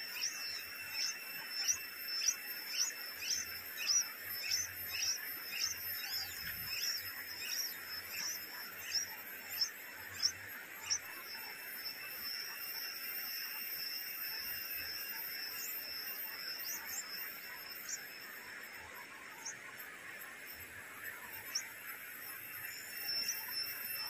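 A bird gives short, high, down-slurred chirps about twice a second, then only an occasional chirp after about eleven seconds. A steady high hiss runs underneath.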